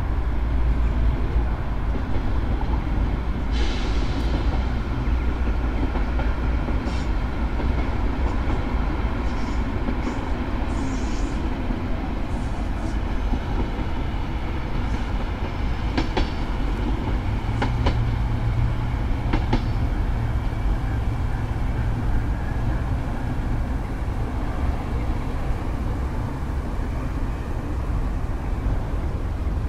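Diesel multiple unit passing on elevated track, a steady rumble of engine and wheels with a few sharp clicks from the wheels scattered through the middle and a low engine drone in the second half.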